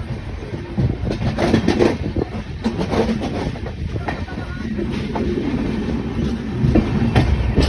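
Passenger express train pulling out of a station, its wheels clicking irregularly over the rail joints through the train's steady low running noise.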